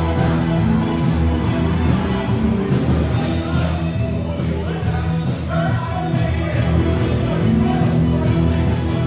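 Live rock band playing a song, with a singer's voice coming in over the instruments.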